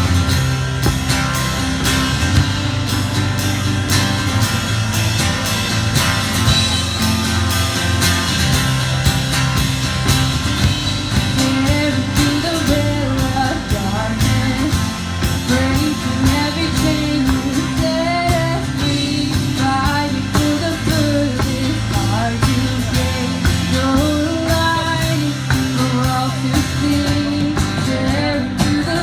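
Live worship band playing a rock song with electric guitars, bass and drums. Singing comes in partway through.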